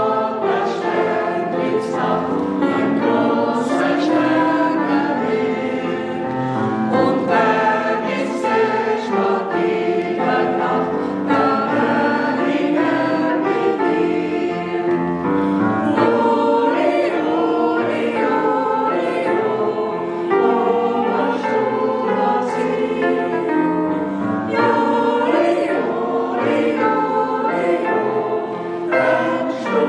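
A choir singing a song, with voices sustained without a break.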